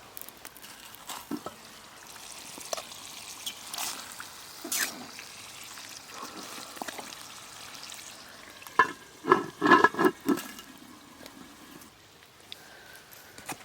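Campfire crackling with scattered pops, then a short run of loud gurgling sounds of liquid about nine to ten seconds in.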